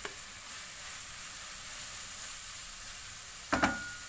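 Grated bottle gourd sizzling in hot ghee in a pan, a steady frying hiss. About three and a half seconds in come two sharp knocks, followed by a brief ringing tone.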